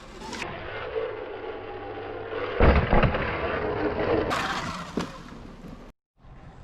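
Sur Ron X electric dirt bike being ridden on a dirt trail, with a loud thump about two and a half seconds in. The sound cuts out for an instant near the end.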